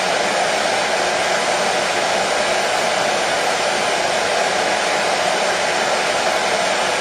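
Hair dryer running continuously, a steady even whoosh of blown air with no change in speed.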